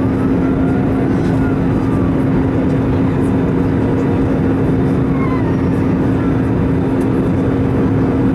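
Steady cabin noise of an Airbus A320 in flight: engine and airflow rush with a constant low hum.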